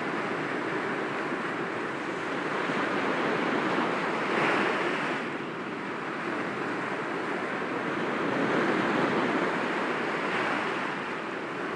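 Sea waves breaking gently against rocks: a continuous rushing wash that swells about four seconds in and again around nine seconds.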